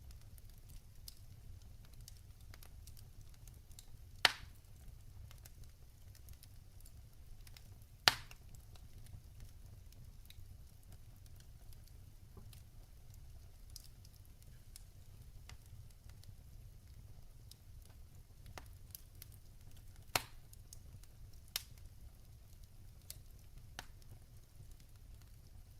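Log fire in a fireplace crackling: scattered small ticks and snaps over a low steady rumble, with a few louder pops of burning wood, two of them close together near the middle.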